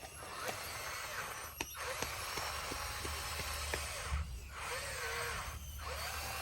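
Bulldozer working, its engine a steady low drone with wavering high squeaks and scattered sharp clicks over it.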